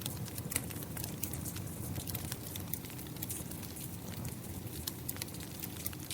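Wood fire crackling with many irregular sharp pops and snaps over a steady rumble of rain.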